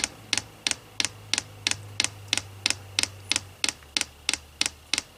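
Diesel air heater's fuel dosing pump ticking steadily in manual pumping mode, about three sharp clicks a second, priming the fuel line.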